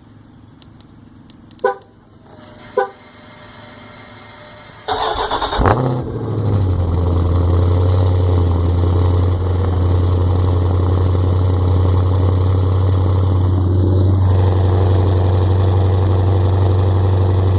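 Two short beeps, then a Dodge Scat Pack's 392 HEMI V8 cranks and fires about five seconds in with a loud flare. It settles into a steady, loud cold-start idle.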